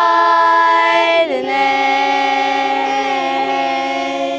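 Dong girls' choir singing a Dong Grand Song (Kam grand choir), several young voices holding long notes in polyphonic harmony. About a second in, the chord slides down a step and is held again.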